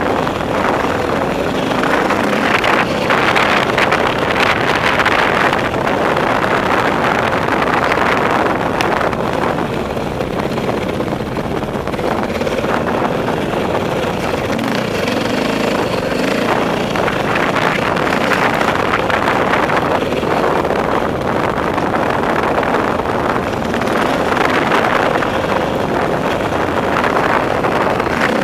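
Dirt bike engine running under way, its note rising and falling with the throttle, mixed with wind buffeting the microphone.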